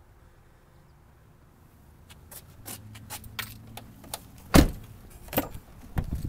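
Clicks, rattles and knocks of a pickup truck's cab being handled, with one loud thump about halfway through and two more knocks near the end.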